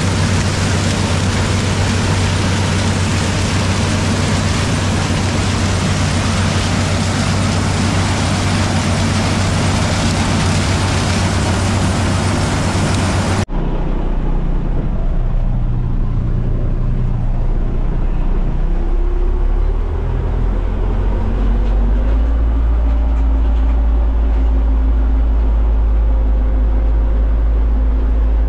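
Zmaj 142 combine harvester working corn, a loud, dense mechanical din over a steady engine hum. About halfway through it cuts suddenly to a lower diesel engine rumble that climbs in pitch a few seconds later and then holds steady.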